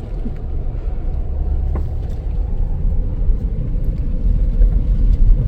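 Low, uneven rumble inside a parked car, slowly growing louder, with a faint steady hum above it.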